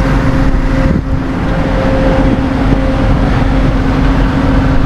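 A vehicle engine running steadily with a constant droning hum, typical of a tow truck's engine working during a winch recovery.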